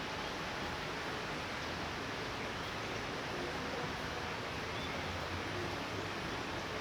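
Steady light rain falling, an even hiss, with a faint low rumble coming up near the end.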